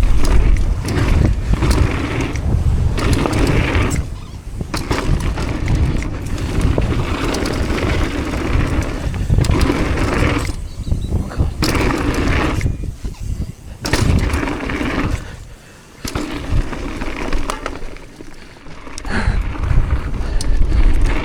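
Mountain bike descending a rough dirt trail: tyre roar and wind rushing over the helmet or chest camera microphone, with a constant clatter of chain slap and rattles over bumps, dropping briefly in a few short lulls.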